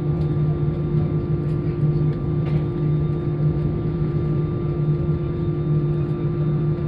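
Airbus A320 cabin noise after landing: the CFM56 engines and cabin airflow give a steady, even hum with a few constant tones, as the airliner rolls out or taxis at low power.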